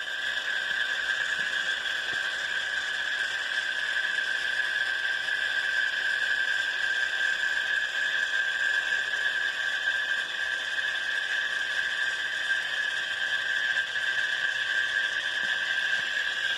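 Yaesu G-800 antenna rotator running under power: its motor and reduction gears give a steady high-pitched whine. The rotator has just been rebuilt with a new potentiometer gear, cleaned and lubed.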